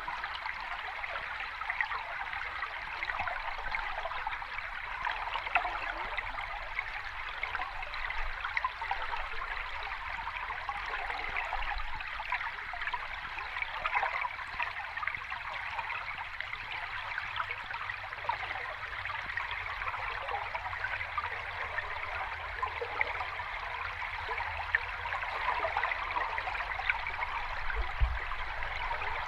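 Water tumbling over a cascade, making a steady, even rush and splash.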